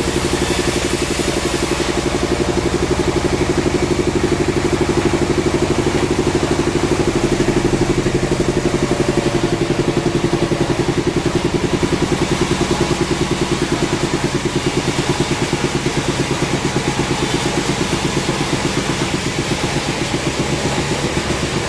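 Engine running steadily at an even speed, with a fast, regular pulse.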